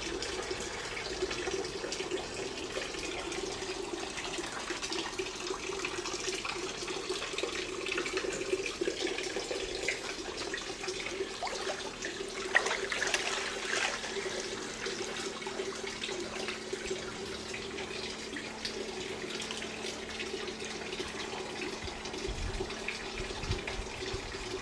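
Water running steadily, a continuous rush with a few small clicks and splashes mixed in.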